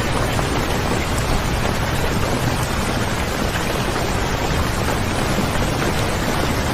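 Rain falling steadily, an even hiss with no single drops or rumbles standing out.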